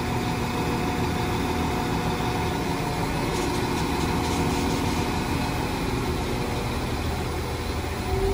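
Northern Class 195 diesel multiple unit's engines running with a steady hum as the train departs. A deeper rumble starts right at the end.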